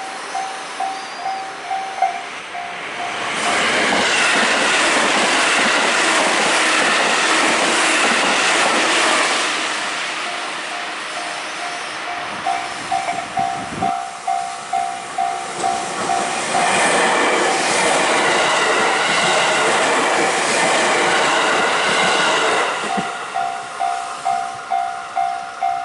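Level-crossing warning bell ringing about twice a second, with trains passing over the crossing twice. Each pass is a loud rush with clattering wheels that drowns the bell.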